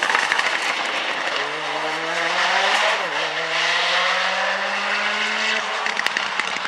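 A Mitsubishi Lancer Evo race car's turbocharged four-cylinder engine accelerating hard, its pitch climbing steadily with a brief dip at a gear change about three seconds in. Near the end the engine note drops away and sharp cracks and pops take over.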